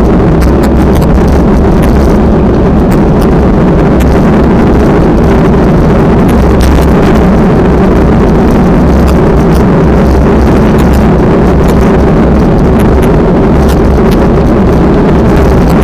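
Strong wind buffeting the microphone, loud and steady.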